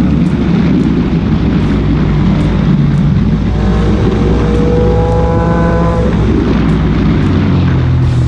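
Motorcycle engine running under way, with a pitch that rises steadily for a couple of seconds around the middle as it accelerates.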